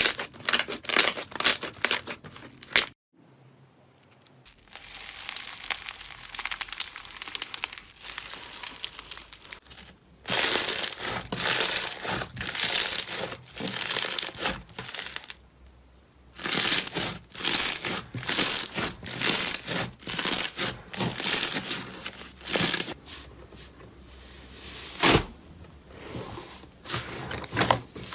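Hands squeezing, pressing and stretching slime, making repeated crackly, crinkly popping bursts about once or twice a second. The sound drops out briefly a few seconds in and again about halfway through.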